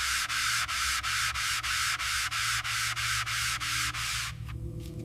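Sandpaper rubbed back and forth over a car body panel in even strokes, about three a second, stopping about four seconds in. This is sanding off a guide coat to show the high and low spots in the bodywork.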